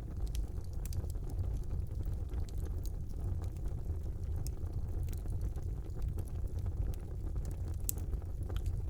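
Wood fire burning in a brick fireplace: a steady low rumble of the flames with frequent small sharp crackles and pops scattered throughout.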